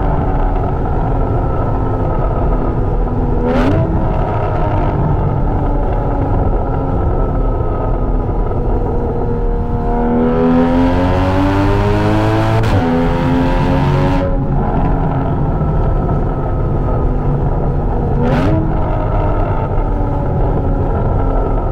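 2016 Porsche Cayman's mid-mounted flat-six running through a Soul Performance aftermarket exhaust while driving. The revs sag slowly, jump up sharply twice, about three seconds in and near the end, and climb under acceleration around the middle before falling away.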